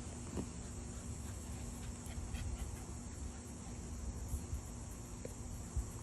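Steady high-pitched insect chirring, with a low rumble and a few faint knocks underneath.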